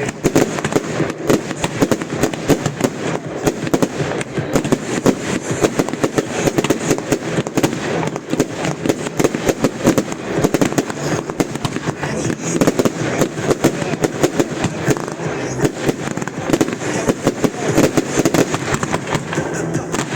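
Fireworks going off in a dense, unbroken barrage of rapid bangs and cracks, many reports a second.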